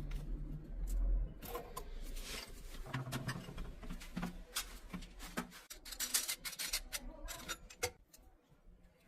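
Hands working on PVC pipe and fittings: a run of plastic clicks, taps and scrapes. They are busiest about six to eight seconds in and fade near the end.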